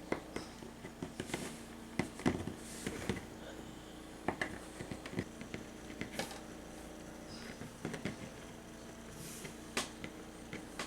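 Scattered soft clicks and taps of hands working polymer clay and small tools on a work surface, over a faint steady hum.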